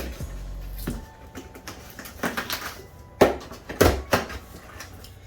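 Packaging being forced open by hand: handling and scraping, then a few sharp knocks and snaps about three seconds in.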